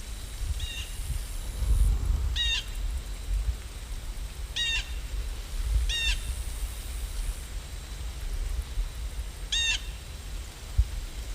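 A bird calling five times, short separate calls a second or more apart, over a steady low rumble.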